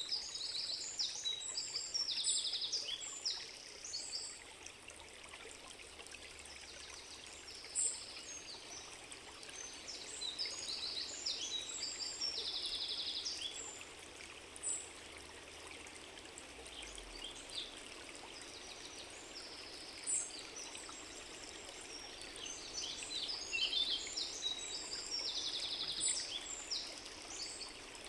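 Songbirds singing short, repeated high chirping phrases over the steady rush of a flowing stream.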